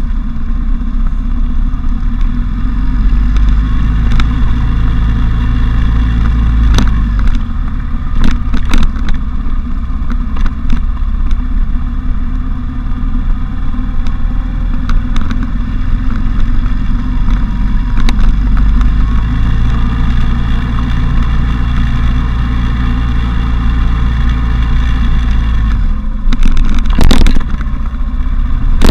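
Motorcycle riding along with its engine running steadily, under heavy wind rumble on the camera's microphone that eases and then builds again, with the bike's windshield removed. Scattered knocks and clatter, several of them close together near the end.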